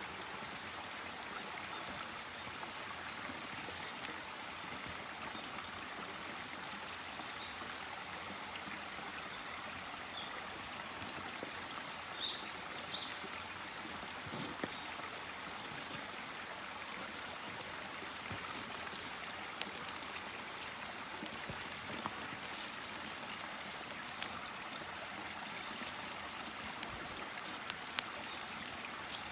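Steady running water, with scattered sharp clicks in the second half.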